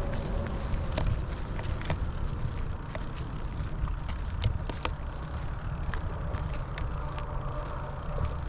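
Bicycle being ridden over a rough riverside path: a steady low rumble with scattered sharp clicks and ticks.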